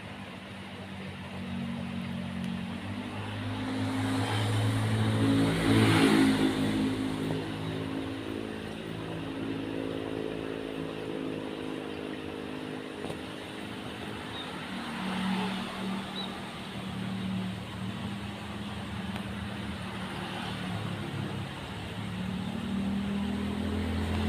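Motor vehicles passing on a nearby road, their engines swelling and fading one after another. The loudest pass comes about six seconds in, with fainter ones later.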